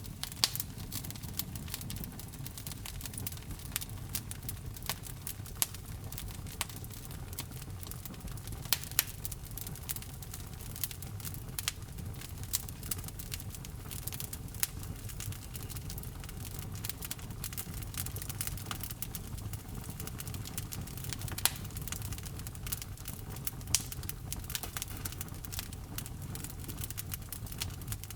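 Wood fire crackling in a fireplace: frequent irregular sharp pops and snaps, a few standing out loudly, over a steady low rush of flame.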